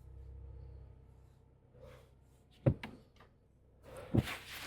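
Low car engine hum dying away in the first second, then two sharp knocks about a second and a half apart.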